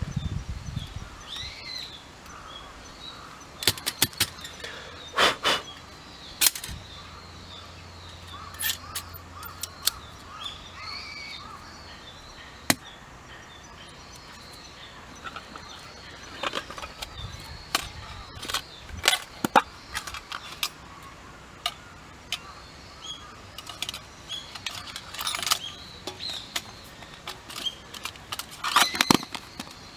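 Irregular sharp clicks and knocks, some in quick clusters, over a steady outdoor background with small birds chirping now and then.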